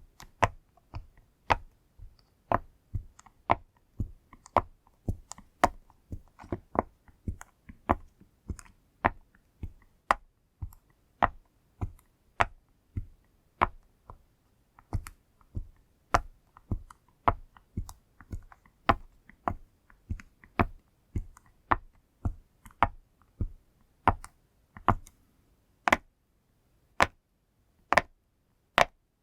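Pop-it fidget toy bubbles being pressed one by one, each giving a short, sharp pop, about one to two a second at an uneven pace.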